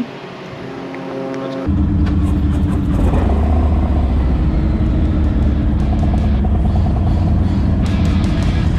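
Motorcycle engine running at road speed, a steady low rumble, coming in suddenly and loud a little under two seconds in after a quieter steady hum.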